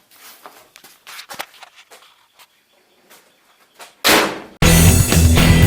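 Faint clicks and handling knocks, then about four seconds in a single loud slam that dies away quickly. Half a second later, music with guitar and drums starts and continues.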